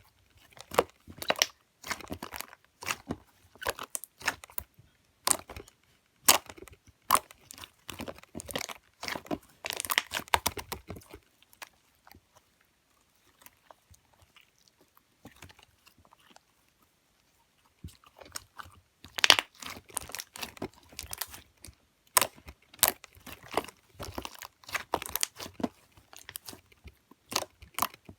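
Clear green slime being worked by hand, making rapid wet clicks and crackling pops. There is a pause of several seconds about halfway through before the clicking resumes.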